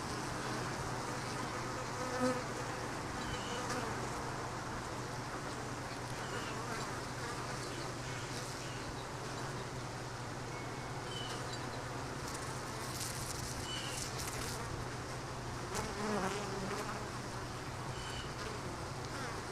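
Honeybees buzzing steadily around an open beehive during an inspection, with a few faint knocks.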